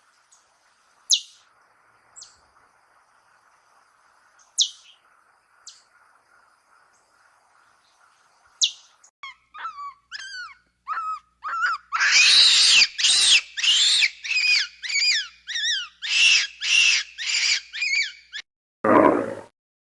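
Animal calls: a few sharp, high single calls, then from about nine seconds a run of quick calls that bend in pitch. From about twelve seconds these become loud, repeated calls, about two a second, and they stop near the end.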